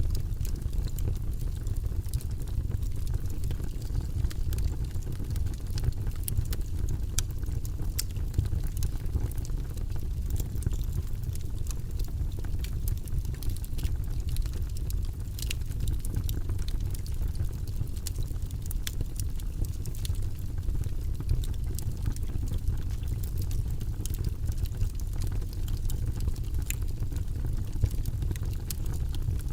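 Wood logs burning in a fireplace: a steady low rumble of the flames with frequent sharp crackles and pops scattered irregularly throughout.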